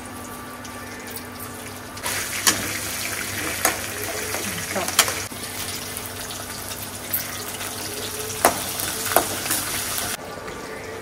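Green chillies and curry leaves sizzling loudly in hot oil in a metal kadai, the tempering for tamarind rice. The sizzle starts suddenly about two seconds in, and a steel slotted spoon clinks against the pan several times as it is stirred. The sizzle cuts off abruptly near the end.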